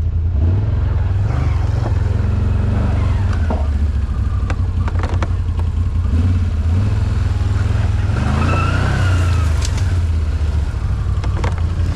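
ATV engine running under load through mud and brush, rising and falling in revs, with one climb in pitch about eight seconds in. Scattered sharp clicks and knocks sound over it.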